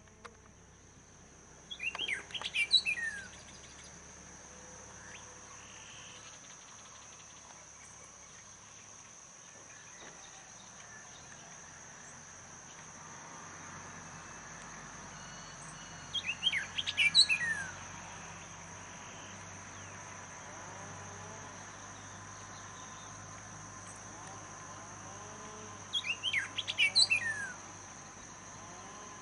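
A songbird singing three short phrases of quick, falling whistled notes, about ten seconds apart, over a steady high-pitched insect trill.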